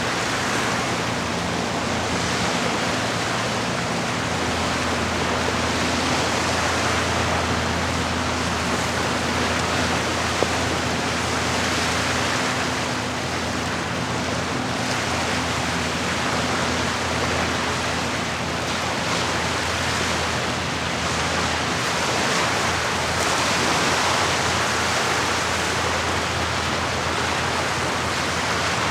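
Lake water washing against the shore in a steady rush that swells and eases every few seconds. A low steady hum sits underneath through the first half.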